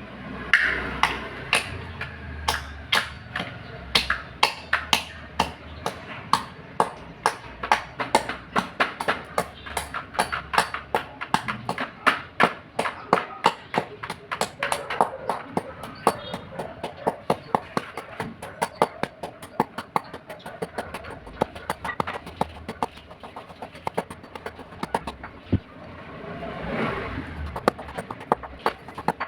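Clay diya oil lamps being crushed: a quick run of sharp crunching cracks, several a second.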